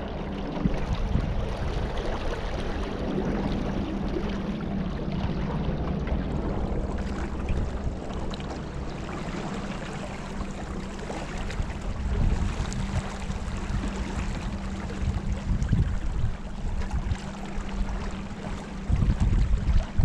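Water sloshing and splashing around a small boat on a river, with uneven wind rumble on the microphone and a faint steady hum under it.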